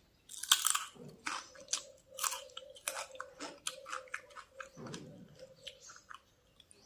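Close-up chewing and crunching of a mouthful of pork, a rapid irregular series of sharp crunches with wet chewing between them.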